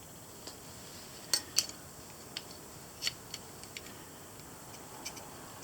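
Silky Pocketboy 170 folding saw being opened and set: a series of sharp metallic clicks from the blade and its lock, two loud ones about a second and a half in and another right at the end.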